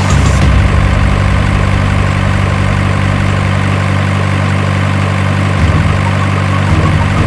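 A heavy engine idling steadily, likely the simulated diesel engine sound of a remote-control excavator or truck. There is a slight change in the idle about five and a half seconds in and again near the end.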